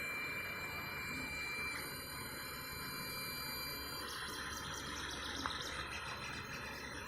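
FDM 3D printer running mid-print: a steady hum of fans with thin high motor whines that shift and drop out about two and four seconds in.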